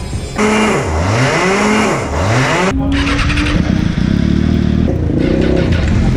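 Superbike engines revving: the engine note drops and climbs sharply twice, then after an abrupt cut a bike holds a steady high-revving note.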